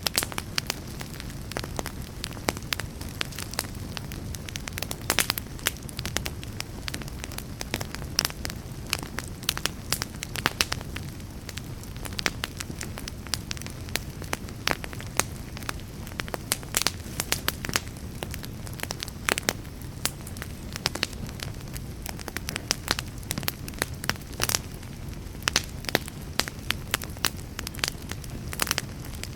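Wood fire in a fireplace crackling, with frequent irregular sharp pops over a steady low rumble of wind.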